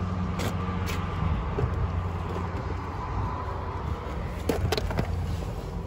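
Car running, with a steady low engine hum and road noise heard from inside the cabin. A few light clicks stand out over it.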